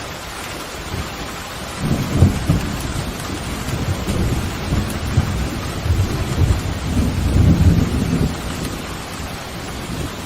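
Steady pouring rain with a long roll of thunder that rumbles in about two seconds in, swells again a few seconds later and fades away near the end.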